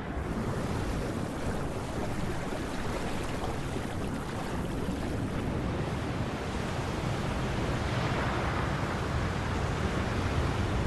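Sea surf and wind: a steady rush of waves, slowly growing a little louder.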